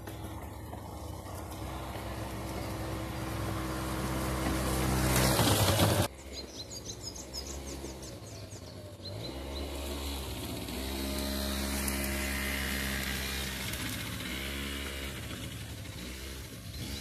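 Small motor scooter engine running while being ridden, its pitch rising and falling with the throttle. A loud rushing noise builds over the first six seconds and then cuts off abruptly.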